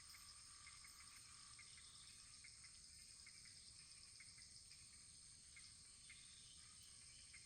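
Faint wood fire burning in a fireplace: a soft steady hiss with many small, irregular crackles.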